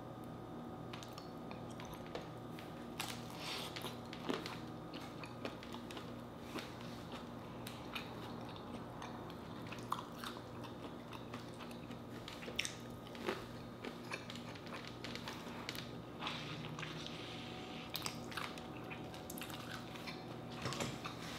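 A person eating seafood close to the microphone: chewing and biting, with many short, irregular wet clicks and smacks over a faint steady hum.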